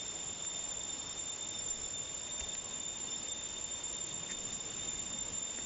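Insects droning in a steady high-pitched tone over a constant hiss.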